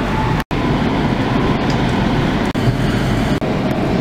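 Passenger train running at speed, heard from inside the carriage: a loud, steady rumble of wheels on track. The sound cuts out for an instant about half a second in.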